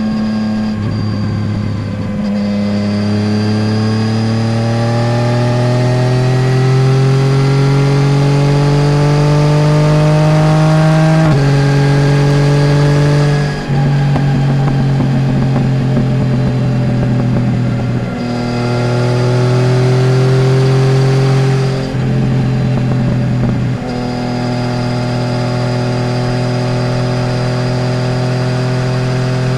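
Yamaha Tracer 900 GT's inline-three engine through a full Roads Italia aftermarket exhaust with dB-killer, heard from under the passenger seat while riding. The engine pitch climbs steadily over about nine seconds under acceleration, then the sound dips briefly several times as the pitch steps, and it settles into steady cruising near the end.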